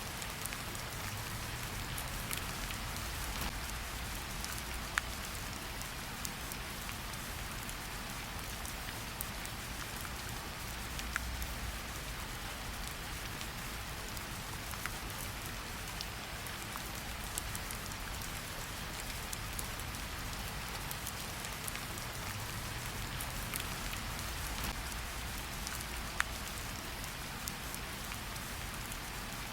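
Steady rain falling, an even hiss with scattered single drops ticking sharply throughout, over a low rumble.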